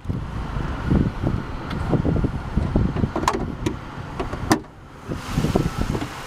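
Sharp clicks and clunks of a car's hood latch being released and the hood lifted, over an uneven low rumble of handling noise.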